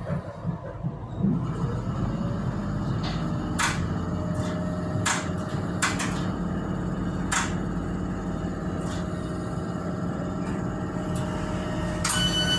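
Tyne and Wear Metro train pulling away and running along the track: a steady rumble with a motor hum that rises in pitch over the first couple of seconds and then holds, and several sharp clicks. A high steady tone sets in near the end.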